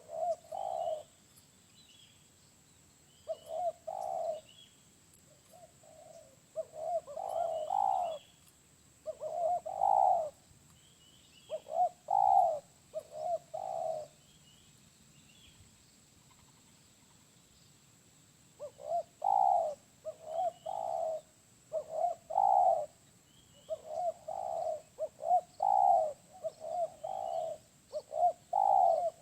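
Spotted dove (tekukur) cooing: repeated phrases of two or three low notes, with a gap of a few seconds in the middle before the cooing resumes more steadily.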